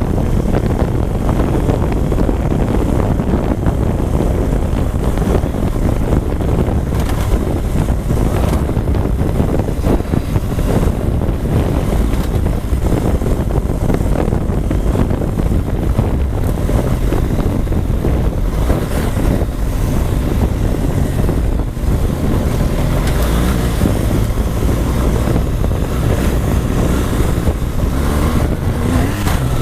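BMW GS adventure motorcycle running under way, its engine noise mixed with heavy wind buffeting on the rider's microphone.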